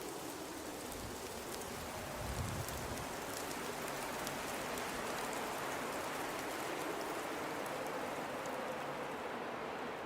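Blizzard wind blowing steadily with a faint low howl, a heavier low gust about two seconds in, and scattered faint ticks.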